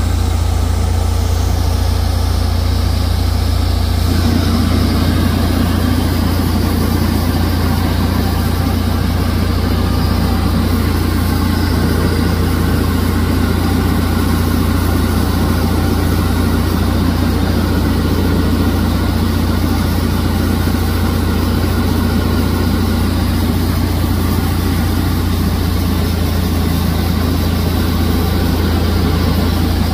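Cessna 172's piston engine and propeller droning steadily, heard from inside the cockpit over the rush of air. Its tone shifts slightly about four seconds in.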